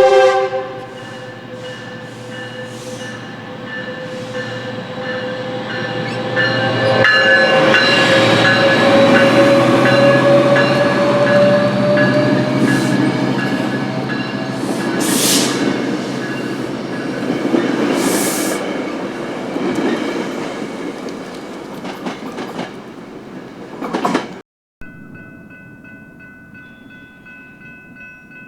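Metrolink commuter train passing close by. It opens with a short horn blast, then the locomotive and wheel-on-rail noise build, are loudest in the middle and fade. After a sudden cut near the end, a quieter steady chord of several tones begins.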